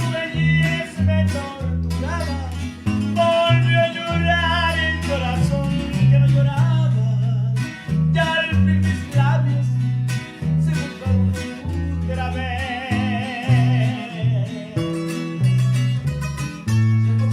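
A norteño group playing a song live: plucked guitar strings over a walking bass line, with a sung melody.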